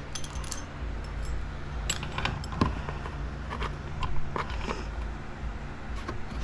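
A metal roller chain for a motorcycle drive being handled, its links clinking and rattling in a string of irregular small clicks.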